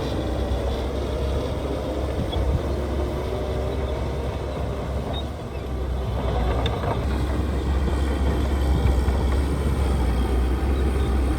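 Heavy diesel construction machinery running under load, a steady low rumble that dips briefly about halfway through and then builds again, with a few faint metallic clicks.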